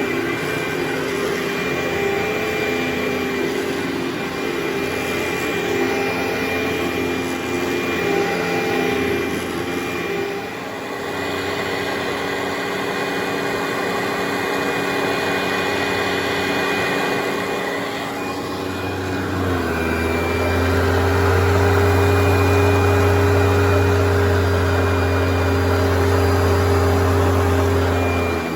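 Carpet-cleaning extraction machine running steadily with a constant motor drone. Its pitch shifts a little about ten seconds in, and at about twenty seconds a deeper hum comes in and stays.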